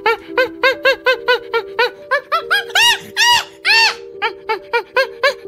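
Gibbon calling: a rapid series of hooting notes, each rising and falling in pitch, swelling into longer whoops in the middle and then quickening into short notes again. Steady background music runs underneath.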